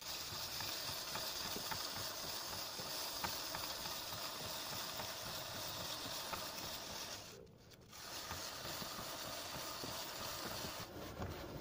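Sandpaper rubbing steadily over a motorcycle's rear brake disc, smoothing a surface left rough and scored by brake pads worn down to the metal. The rubbing stops briefly about seven and a half seconds in.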